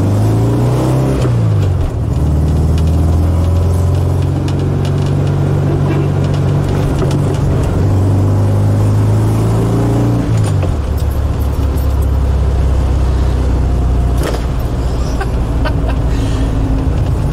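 Air-cooled flat-four engine of a 1968 VW Type 3 Fastback heard from inside the cabin while driving. It pulls up in pitch and drops at a gear change about two seconds in, then holds. About ten seconds in it falls off to a lower, steady note.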